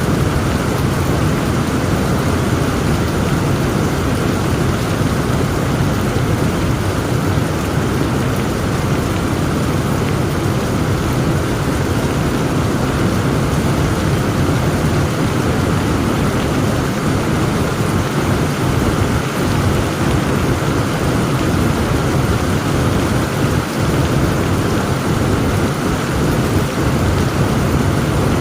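Heavy rain pouring steadily in a thunderstorm, with a constant deep low rumble under the hiss of the rain and no single sharp thunderclap.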